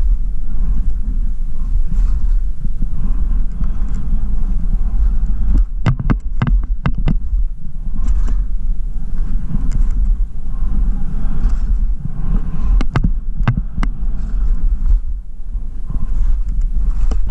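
Wind buffeting the microphone of a camera on a skier going downhill, a loud steady low rumble, with sharp scrapes and clicks of skis on snow coming in clusters, a third of the way in and again later.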